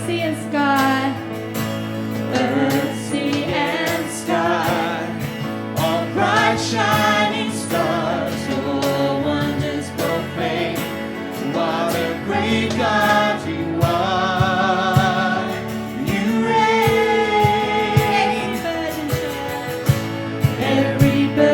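Church worship team performing a worship song: singing with vibrato over a steady instrumental accompaniment.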